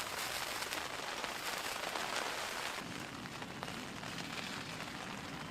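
Steady rain falling on a tent's fabric: an even hiss with many small drop taps.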